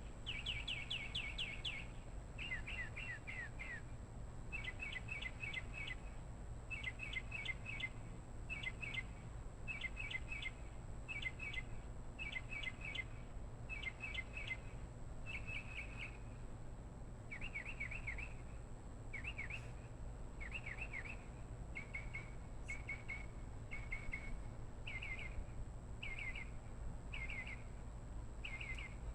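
A bird calling without pause: short, high, downward-sliding chirps in quick groups of two to four, repeated about once a second.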